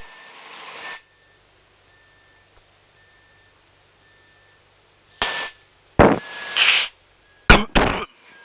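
Aircraft headset intercom audio. A rush of hiss stops about a second in, then it is nearly quiet apart from a faint short beep repeating about once a second. Several sharp bursts of static or breath noise on the mic come between five and eight seconds in.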